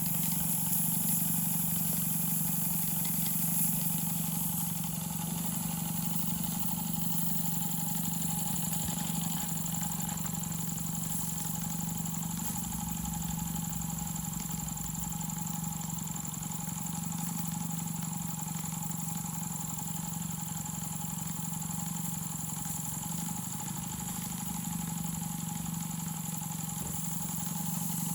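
Rocking Whale BL1K single-cylinder double-acting model steam engine running steadily, an even machine hum with a high hiss over it.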